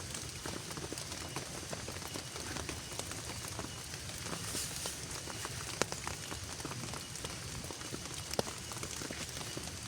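Steady rain falling, with single drops ticking sharply on a nearby surface, two louder ticks standing out near the middle and toward the end.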